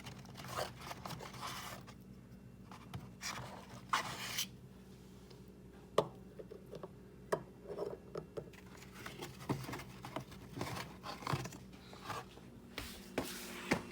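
Asparagus being cut up into small pieces: irregular crisp cutting and scraping strokes with a few sharp taps, over a faint steady hum.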